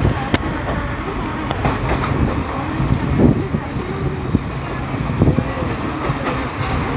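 Passenger train running along the track: a steady rumble of wheels on rails, with occasional short clicks and knocks.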